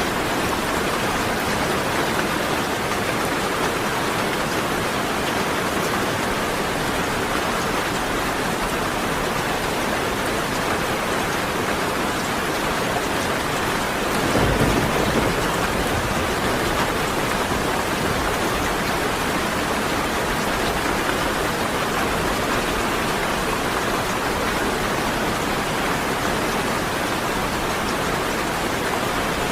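Steady rain falling, with one short roll of thunder rumbling about halfway through.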